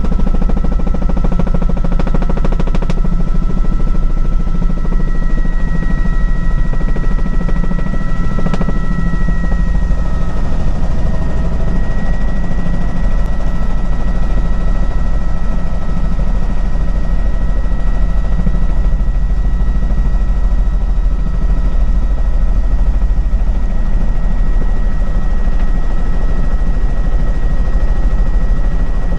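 Helicopter running steadily in flight: a rapid, continuous chop of the rotor blades under a steady high turbine whine.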